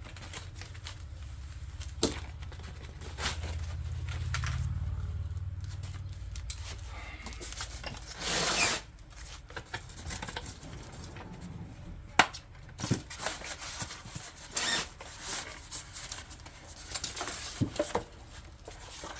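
Unpacking an e-bike from its shipping box: scattered sharp snips and clicks of zip ties being cut and plastic packing pieces handled, with packaging rustling. A short, loud rustle comes about eight and a half seconds in.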